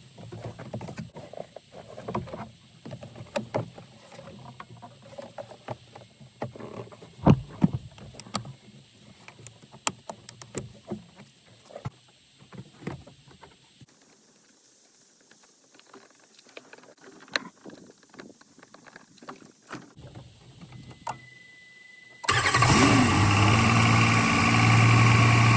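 Clicks and knocks of plastic parts and clips being handled for the first half. Near the end a Jeep engine starts suddenly, its speed briefly rising, then settles into a steady idle.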